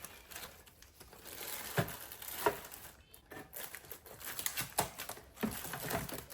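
Plastic packaging crinkling and rustling as it is handled, broken by a few sharp clicks and knocks from parts being moved. The two loudest knocks come about two seconds in.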